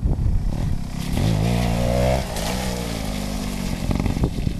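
Gas Gas JTX trials motorcycle's two-stroke engine revving as the bike rides across wet ground: the pitch climbs for about a second, drops, then carries on at a lower, steadier note.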